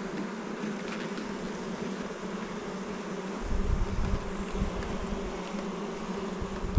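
Honeybees buzzing around an opened hive, a steady hum. A low rumble joins about halfway through.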